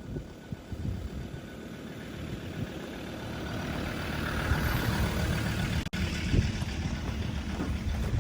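Ford Ranger pickup towing a trailer, its engine running with a steady low rumble and tyre and track noise, growing louder over the first five seconds. A brief sudden dropout comes about six seconds in.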